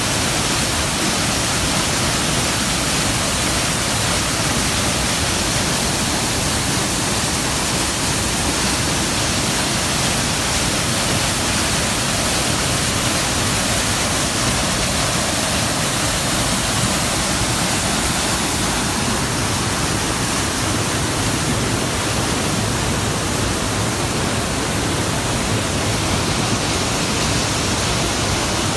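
Waterfall pouring: a loud, steady rush of falling water that hardly changes.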